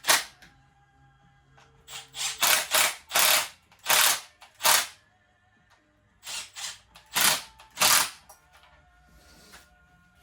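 Bolts being run down on a Stihl MS 171 chainsaw with a tool: short bursts of mechanical ratcheting, about four in quick succession, a pause, then three or four more.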